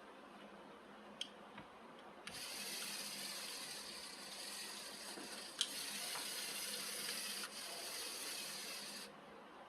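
A steady rushing hiss, like spraying water or air, starts abruptly about two seconds in and cuts off suddenly near the end. Sharp clicks come just before it and once in the middle.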